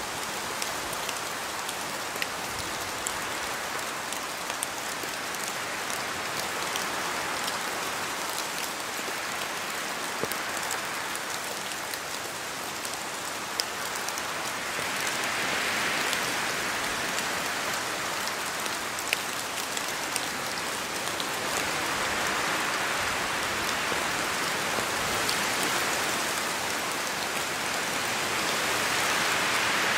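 Steady rain in a forest, with scattered sharp ticks of drops falling from the trees. The hiss swells louder a few times, from about halfway through and again near the end, as wind gusts through the trees.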